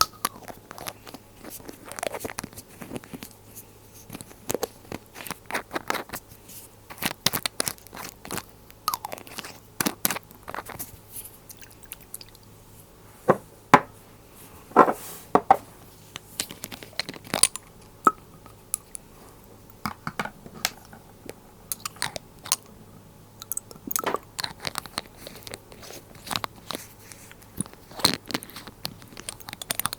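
Glass dropper bottles and their lids handled close to the microphone, making a long run of irregular sharp clicks and taps, a few louder ones about halfway through.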